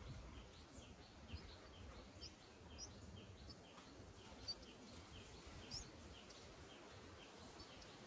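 Near silence with faint bird chirps: a short high note repeated about twice a second, with a few higher, sharper chirps now and then.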